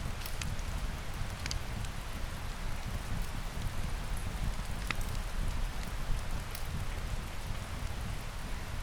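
Steady rain falling, an even hiss over a low rumble, with a few sharp ticks scattered through it.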